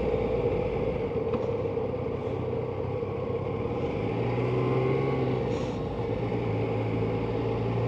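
Yamaha Tracer 900 motorcycle's three-cylinder engine running at a steady, moderate speed, with wind and road noise from riding.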